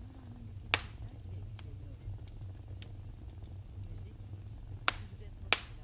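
Wood fire burning in a fireplace, crackling over a steady low rumble. One sharp pop comes about a second in and two more near the end, with fainter ticks in between.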